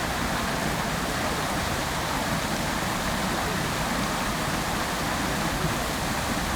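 Fountain water splashing and falling steadily into its basin, an even rushing hiss without a break.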